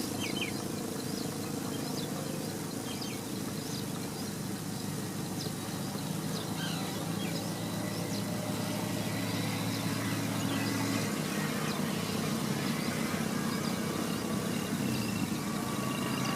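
Steady low mechanical hum with a few faint high bird chirps over it, mostly in the first half.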